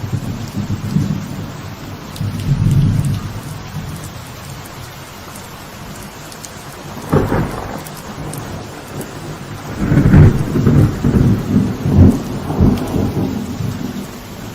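Light rain falling steadily on a veranda, with thunder: low rumbles near the start, a sharper clap about seven seconds in, and a longer, louder rolling rumble from about ten seconds until near the end.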